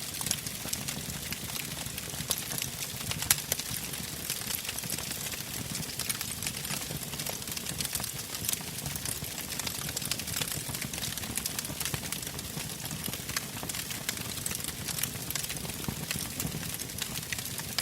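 Wood campfire burning, with steady crackling and popping of the logs; one sharper pop a little over three seconds in.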